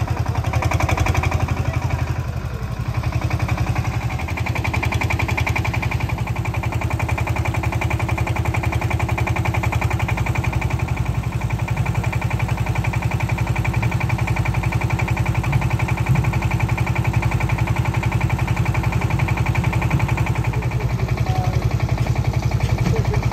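An engine idling steadily with a fast, even throb.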